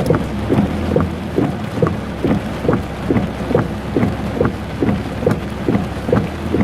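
Car windscreen wipers sweeping fast in heavy rain, about two strokes a second, each stroke a quick falling swish, over a steady engine hum inside the cabin.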